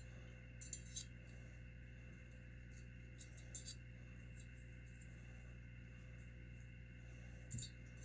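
Near silence over a steady low hum, with a few faint light clicks and taps from small engine parts and tools being handled during reassembly.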